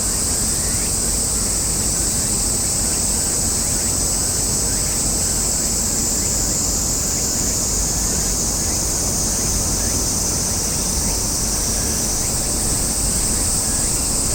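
Steady high-pitched insect chorus, the kind of drone cicadas give in summer, over a low rumble of wind.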